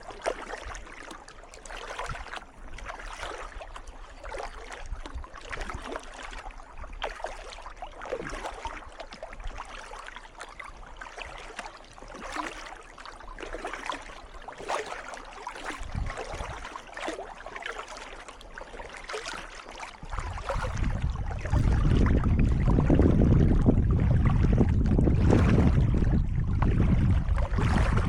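Kayak paddle strokes dipping and splashing in calm water, about one a second. About two-thirds of the way in, a loud low rumble of wind on the microphone comes in and becomes the loudest sound.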